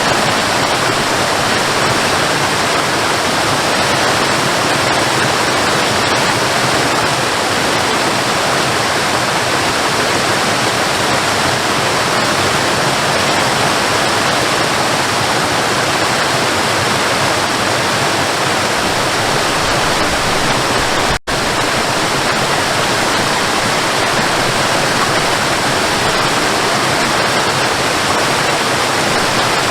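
Waterfall: a steady, even rush of falling water, with a split-second gap in the sound about two-thirds of the way through.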